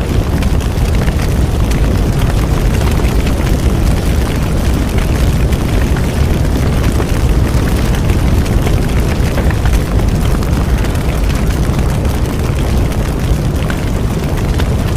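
Bonfire burning: a steady low roar of flames with frequent small crackles and pops of burning wood.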